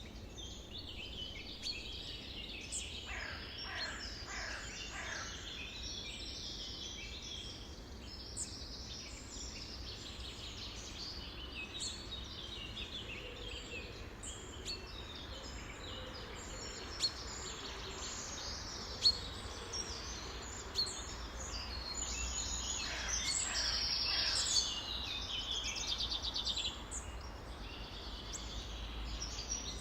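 A chorus of many songbirds calling at once: dense, overlapping chirps and twitters, with a few downward-sliding calls near the start and again toward the end. Two short sharp clicks stand out around the middle, over a steady low rumble.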